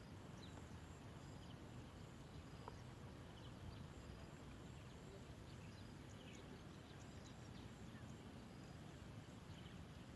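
Near silence: faint outdoor background with a low steady rumble and scattered faint, short, high chirps.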